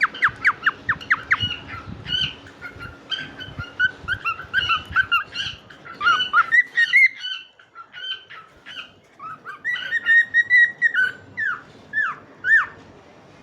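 Cockatiels chirping: a quick run of short, falling chirps, then busier warbling chirps, a short pause near the middle, and a few more falling calls near the end.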